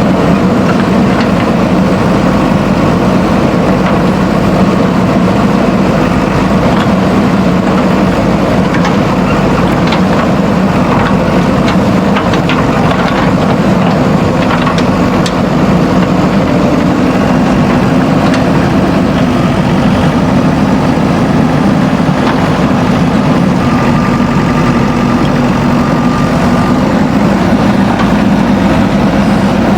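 Backhoe loader's diesel engine running steadily, with a few light clicks or clanks between about ten and fifteen seconds in.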